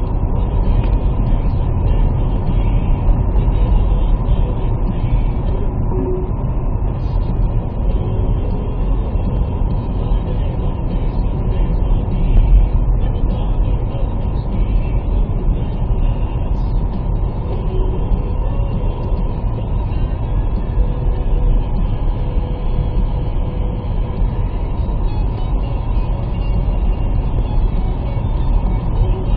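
Steady low rumble of a car on the move, heard from inside the cabin, with no break.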